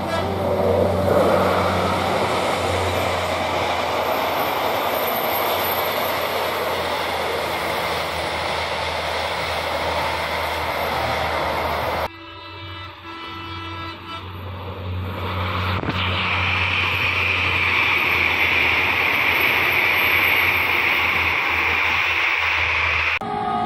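Bandara YIA airport train running past on the track, a loud, steady rumble of engine and wheels. It cuts off suddenly halfway through, and a second pass of the train builds up, with a steady high hiss from the rails over its last seconds.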